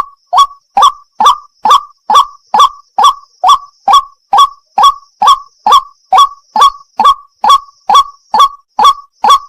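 White-breasted waterhen (wak-wak) calling over and over, a loud, evenly paced call about twice a second with no let-up.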